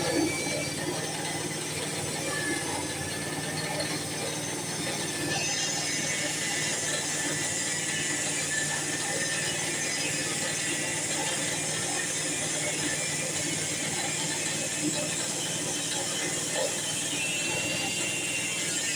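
Sawmill running steadily while its blade cuts through a log, a constant machine noise with a high whine over a low hum.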